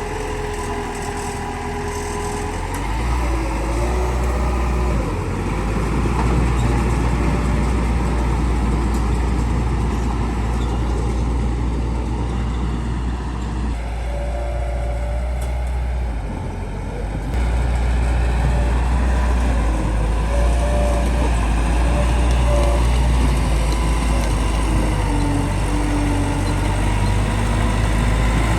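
Bulldozer's diesel engine working, a deep steady drone that drops back for a few seconds past the middle and then picks up again.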